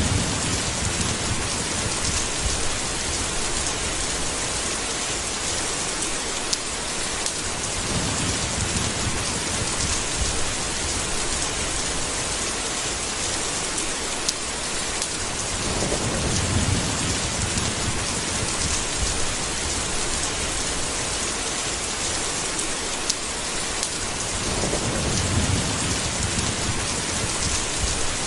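Steady rain falling with thunder rolling in low rumbles: a faint roll about eight seconds in, a longer one about halfway through, and another near the end.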